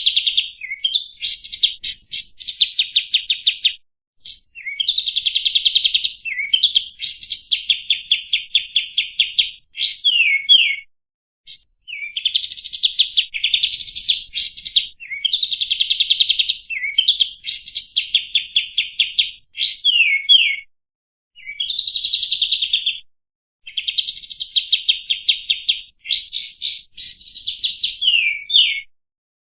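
A kapas tembak songbird singing: bursts of rapid-fire trilled notes lasting one to three seconds, separated by short pauses, some phrases ending in quick downward slurs. It is a tutor song used to train other cage songbirds.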